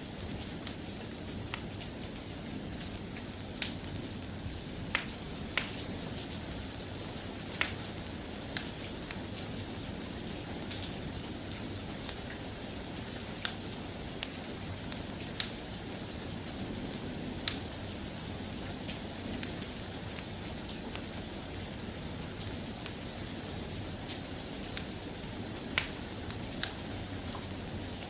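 Steady soft rain hissing, with a wood fire crackling over it: short sharp pops and snaps come every second or two.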